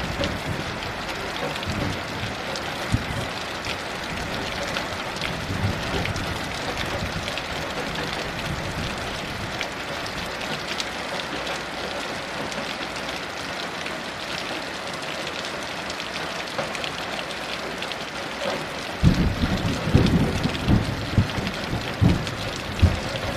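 Steady heavy rain, with a low rumble of thunder rolling in near the end.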